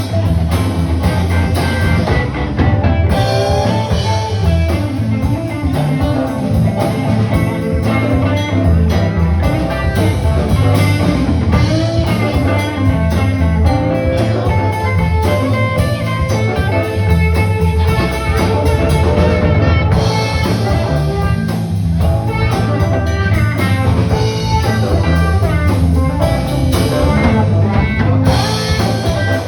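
Live band playing a blues-style instrumental passage: guitar over a drum kit, with no singing.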